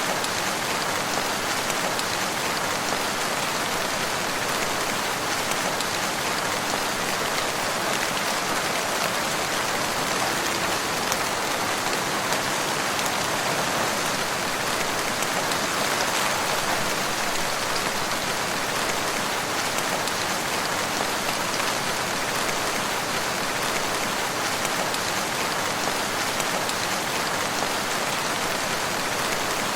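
Steady rainfall in a forest, an even patter of drops with no thunder.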